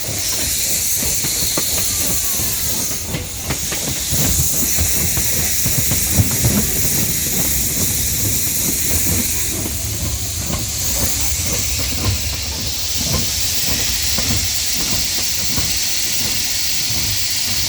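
Steam locomotive hissing steadily as steam escapes, over a low rumble with scattered small knocks and clanks.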